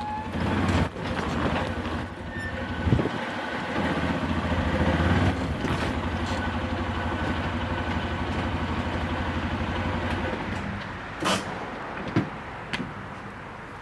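Arctic Cat Prowler 550 side-by-side's engine running steadily under way, then dropping away about ten seconds in. A couple of sharp knocks follow near the end.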